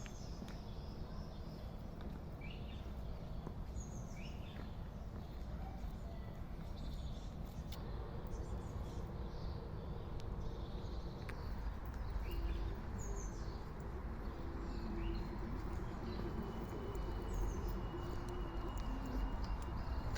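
Small birds chirping and calling here and there, with one thin whistled note held for a few seconds near the end, over a steady low outdoor rumble.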